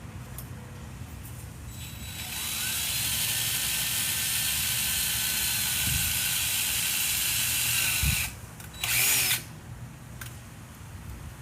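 Power drill spinning up with a rising whine and drilling through for about six seconds, then a short second burst about a second later.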